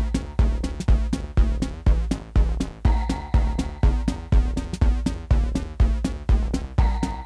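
Live techno played on hardware drum machines and analogue synthesizers: a steady four-on-the-floor kick drum, about two beats a second, under a pitched synth bass line, with a high synth tone that comes back about every four seconds.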